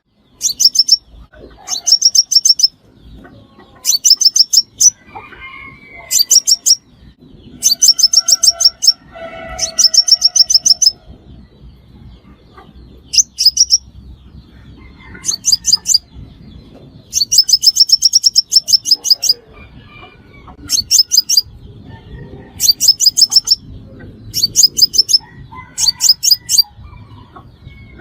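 Sunbird calling: bursts of rapid, very high, sharp chipping notes, each burst about a second long, repeated every couple of seconds.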